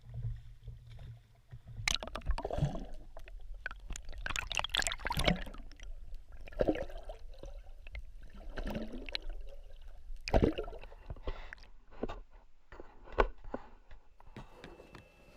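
Dinghy oars dipping and pulling through the water, a splashing stroke about every two seconds.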